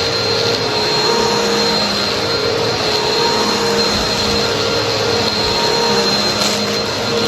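Vacuum cleaner running steadily: a constant rush of air with a high motor whine.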